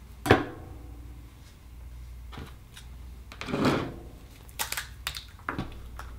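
Sharp clicks and knocks with a rasping scrape in the middle: hand tools and Akoya oyster shell being handled as the oyster is pried open.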